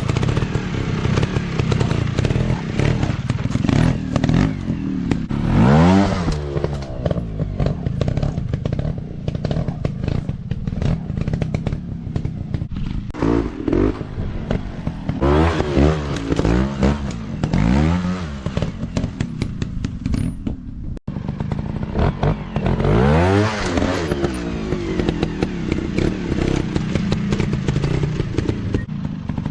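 150 cc dirt bike engines revving hard over and over, pitch climbing and dropping as the throttle is worked, with rattling clatter, and a momentary cut about two-thirds of the way through.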